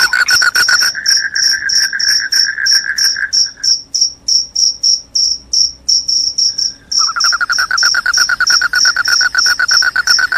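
Crickets chirping loudly in a fast, even, high-pitched pulse, with a lower-pitched trill that stops a little over a third of the way in and comes back about two-thirds of the way through.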